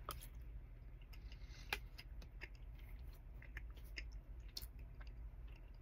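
Faint close-up chewing of a mouthful of tuna, with soft scattered mouth clicks, one a little louder about two seconds in, over a low steady hum.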